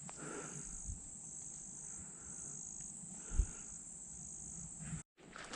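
Insects trilling steadily in the background, with a higher trill repeating in pulses about a second long. The sound drops out completely for a moment near the end.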